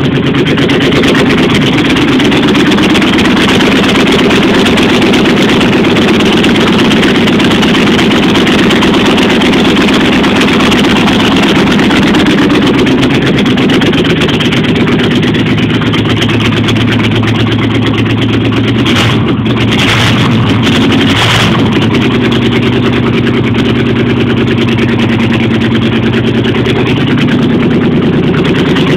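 1989 Jeep Grand Wagoneer's AMC 360 V8 with a two-barrel carburettor, idling steadily on a cold start. The idle briefly wavers about two-thirds of the way through.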